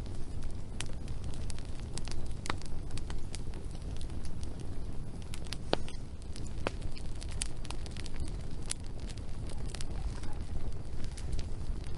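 Wood fire burning, crackling with irregular sharp pops over a steady low rumble of flame.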